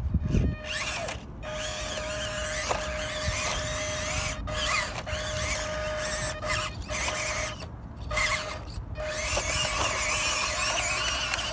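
An electric RC car's motor and gears whining steadily as it is driven, with a high wavering squeal over the top. The whine cuts out and comes back several times as the throttle is let off and reapplied.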